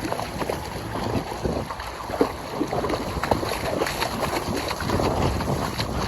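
Waves washing on the beach, with wind buffeting the microphone.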